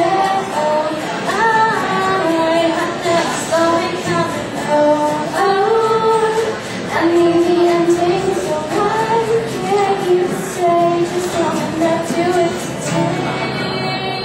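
Female voice singing a song live, holding notes that slide between pitches over a musical accompaniment.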